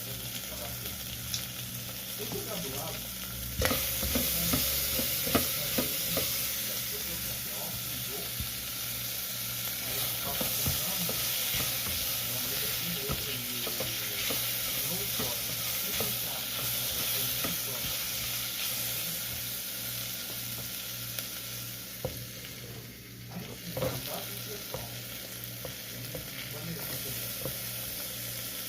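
Food frying and sizzling in a pan, with a utensil stirring and scraping against the pan now and then.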